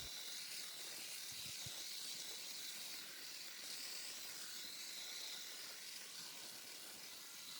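Faint, steady hiss of background noise, with no distinct snips or knocks.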